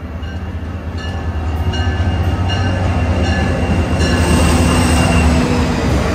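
NJ Transit GP40PH-2B diesel locomotive and its train coming through the station, its engine rumble and wheel noise growing louder, with a bell ringing in regular strokes.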